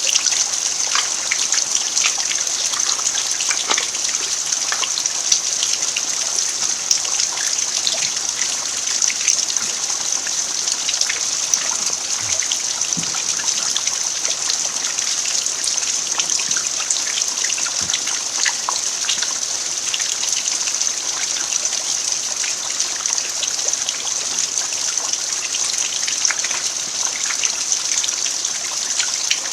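Steady rain falling on a dirt yard: an even hiss with many small drop ticks scattered through it.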